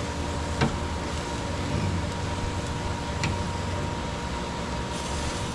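Steady low mechanical hum with an even hiss, with two sharp clicks, one about half a second in and one about three seconds in.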